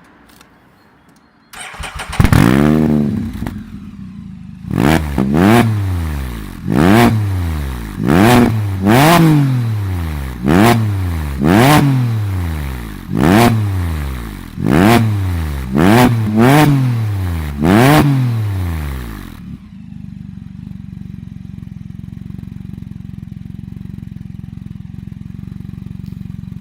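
Can-Am Spyder F3's Rotax 1330 inline three-cylinder through a Lamonster aftermarket exhaust. It starts about a second and a half in with one rev, then is blipped a dozen or so times, each rev rising sharply and falling back. It then settles into a steady idle for the last seven seconds.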